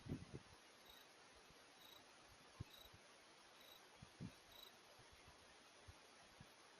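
Faint insect chorus: a steady high-pitched trill with a soft chirp repeating about once a second, and a few faint low thumps.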